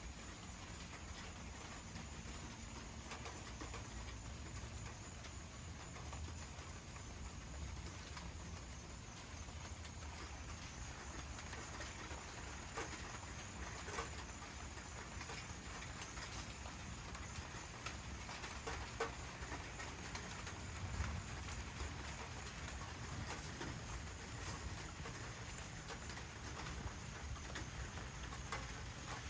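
Steady rain falling, with scattered drops clicking sharply on nearby surfaces.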